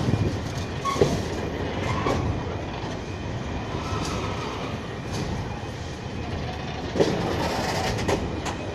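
Train wagons rolling over a level crossing, wheels clicking over rail joints about once a second, with a steady rumble and short squeals from the wheels.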